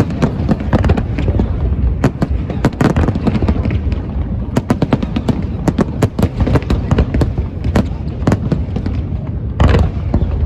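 Fireworks display in full swing: many sharp bangs and crackles in quick succession over a continuous low rumble of booming shells, with a louder cluster of bursts near the end.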